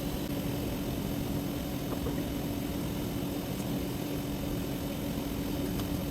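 Steady machine hum with one constant low tone and a noisy wash, broken by a few faint clicks about two seconds in and near the end.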